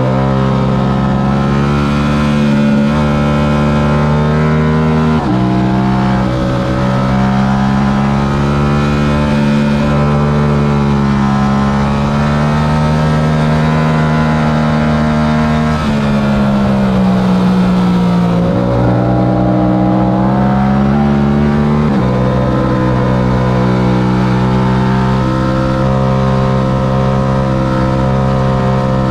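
Stock Yamaha R7 parallel-twin engine running hard at high revs. Its pitch jumps abruptly a few times as gears change, and falls steadily for a couple of seconds past the middle as the bike slows, before picking up again.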